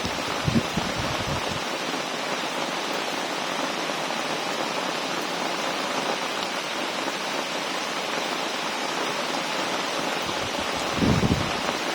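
Heavy rain pouring down in a steady, dense hiss, with low rumbling gusts at the start and again near the end.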